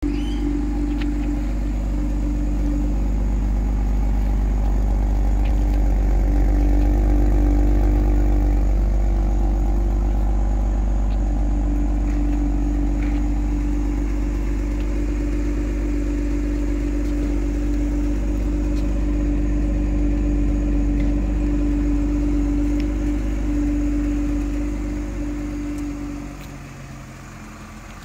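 BMW X3 M40i's turbocharged 3.0-litre inline-six idling steadily, a deep rumble with a steady hum over it; it drops away about two seconds before the end.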